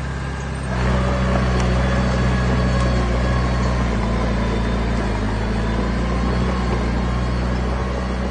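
Diesel engine of a dump truck or small bulldozer running steadily, getting louder about a second in.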